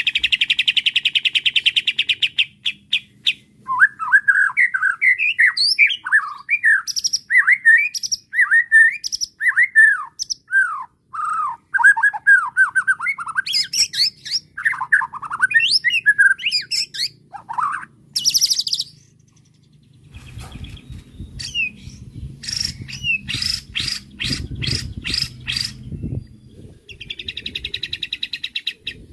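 White-rumped shama (murai batu) singing: a fast buzzy trill, then a long run of varied whistled phrases, a harsh high burst, a string of sharp repeated notes, and another fast trill near the end.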